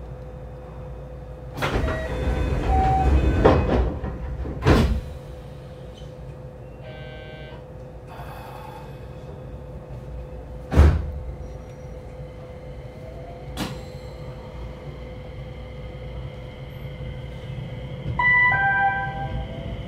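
Inside a 227 series electric multiple unit at a station stop: clunks and knocks, a short door chime, and a heavy thud as the sliding doors shut. Near the end the traction motors start a faint rising whine as the train pulls away.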